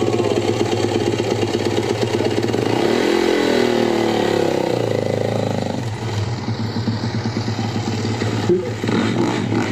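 Yamaha YZ450F dirt bike's four-stroke single idling, revved up and back down about three seconds in, then settling back to idle, with a short thud near the end.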